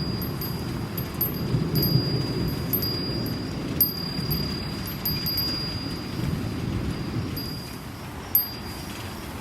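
A Japanese wind chime ringing one high note, its clapper striking again and again, over the steady low noise of a rainstorm. The ringing thins out near the end, with one last sharp strike.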